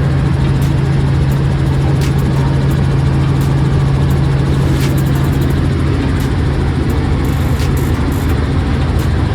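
Helicopter in flight heard from inside the cabin: a loud, steady drone of engine and rotors with a strong low hum that eases a little about six seconds in.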